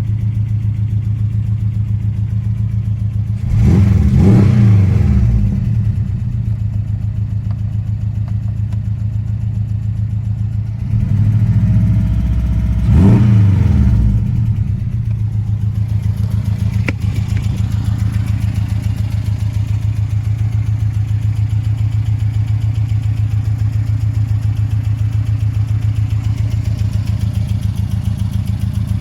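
2017 Porsche 718 Cayman S's turbocharged 2.5-litre flat-four idling with an even pulse. It is revved twice, about four and thirteen seconds in, and each time the pitch climbs and falls back to idle.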